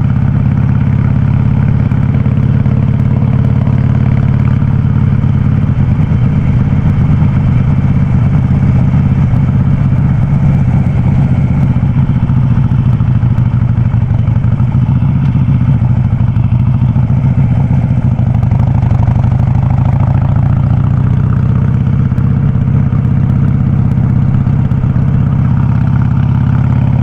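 Harley-Davidson Sportster 48's air-cooled V-twin running steadily through a loud aftermarket Vance & Hines exhaust, a deep, even note with little change in pitch.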